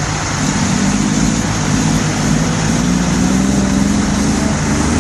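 Motor vehicle engine running steadily, heard over continuous road traffic noise.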